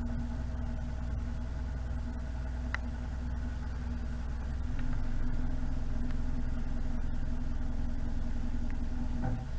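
A narrowboat's diesel engine running steadily at low revs, a little louder from about halfway through.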